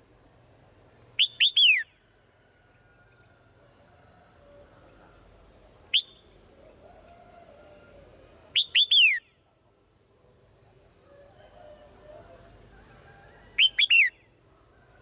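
Swallow calling: short bursts of two or three quick whistled notes falling in pitch, about a second and four in, a single short note around six seconds, another burst near nine seconds and again near fourteen seconds.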